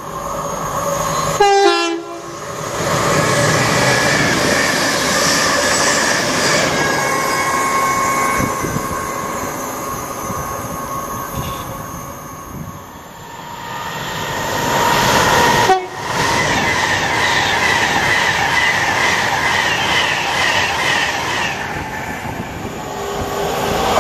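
A brief train horn about two seconds in, then trains running through the station at speed: wheels rumbling and clattering over the rail joints, swelling again as another train passes in the second half.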